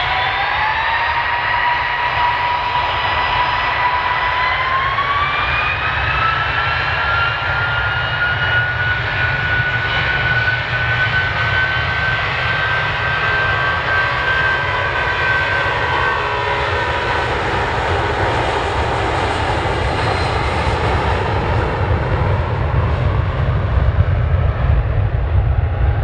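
Jet2 Boeing 757's twin Rolls-Royce RB211 turbofans spooling up for takeoff. A whine rises in pitch at the start, rises again a few seconds in, and holds high. It then fades as a deep rumble grows louder near the end.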